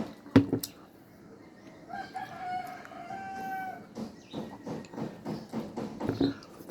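A rooster crowing once, a long call of about a second and a half starting some two seconds in. Around it come close eating sounds: a sharp click near the start, then a run of short smacks and clicks of chewing and utensils.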